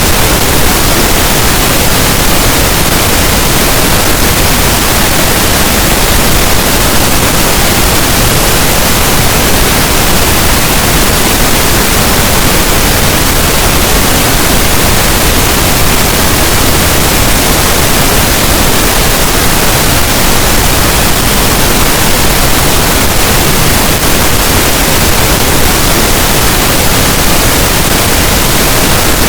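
Pink noise: a steady, even hiss that does not change in level or character.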